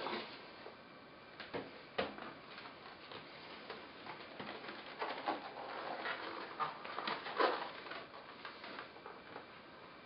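Cardboard box and packaging being handled and opened: irregular clicks, knocks and scuffing rustles, busiest from about four to eight seconds in.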